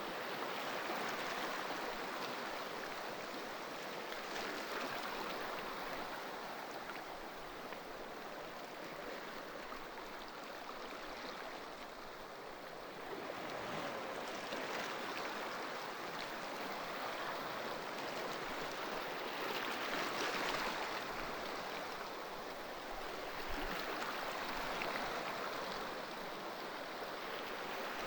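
Ocean waves breaking and washing on the shore: a continuous rush of surf that swells and eases every five seconds or so.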